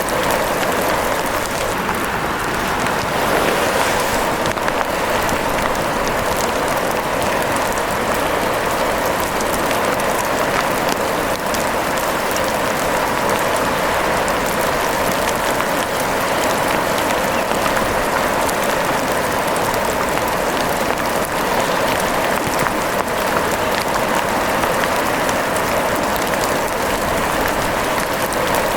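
Steady rain falling, an even hiss with a scattering of small drop ticks throughout.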